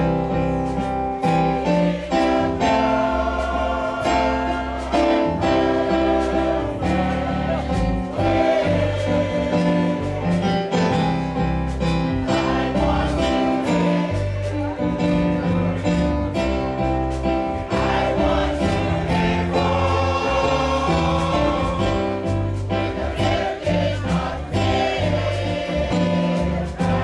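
Gospel choir singing with instrumental backing, bass and a steady beat.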